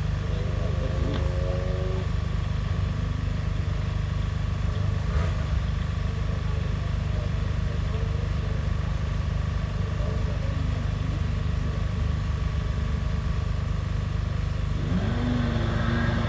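Lotus Exige sports car engine idling steadily on the start line of a hill climb. Near the end the revs begin to rise as it gets ready to launch.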